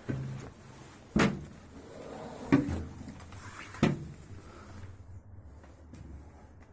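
Four sharp knocks or clunks, a little over a second apart, the third the loudest.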